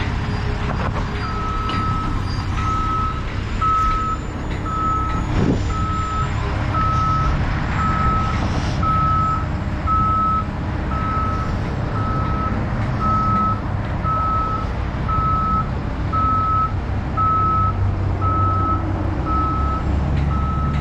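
A truck's backup alarm beeping steadily about once a second as the truck reverses, over the low rumble of its running diesel engine.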